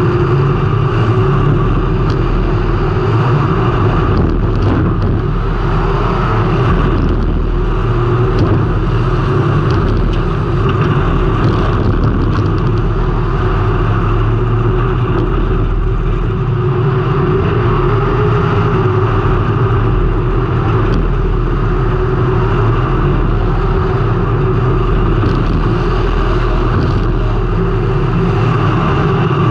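Race car engine running hard under racing load, heard close from an on-car camera, its pitch rising and falling a little as the driver works the throttle, over steady wind and road noise.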